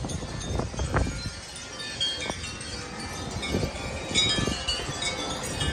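Wind chimes ringing continuously in strong gusty wind, many overlapping high tones, with the wind buffeting the microphone in low rumbles.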